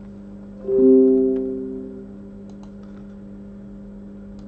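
Background music: a single piano chord struck about a second in and fading away over a second or so, over a steady low hum.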